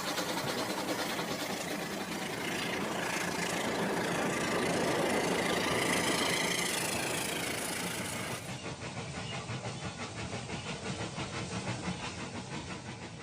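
Battery-powered Rail King toy train running on its plastic track: a small electric motor and wheels making a steady mechanical rattle. About eight seconds in, the sound becomes a regular pulsing clatter.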